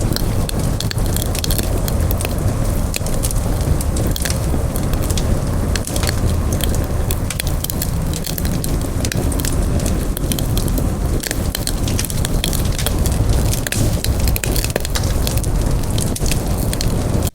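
Campfire burning: a steady low rush of flames with many quick, sharp crackles and pops from the burning wood.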